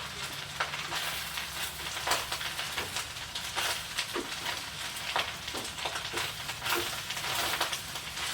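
Fried rice sizzling in a frying pan: a steady hiss with scattered crackles.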